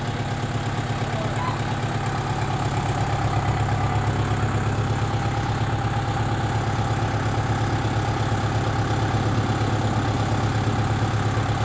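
Tractor engine idling steadily, growing a little louder over the first few seconds.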